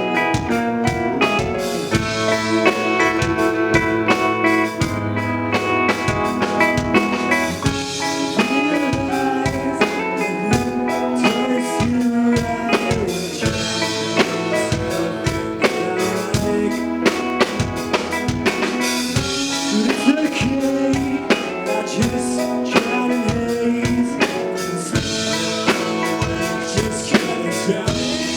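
Live band playing a song without vocals: a drum kit keeping a steady, busy beat under sustained chords and melody lines.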